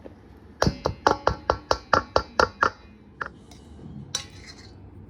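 Kitchen utensils or dishes knocking: a quick run of about ten sharp knocks, around four or five a second, then two more single knocks.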